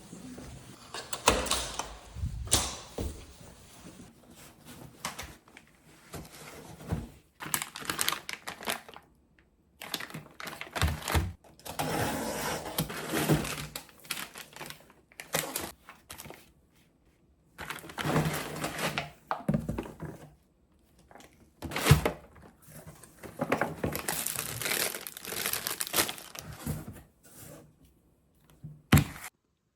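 Kitchen handling sounds in several short separate bursts: packaging crinkling and tearing, with clicks and knocks of containers and utensils.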